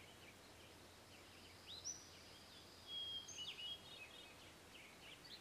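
Faint outdoor ambience with small birds calling: short chirps and whistles, a few about two seconds in and a denser run about three seconds in.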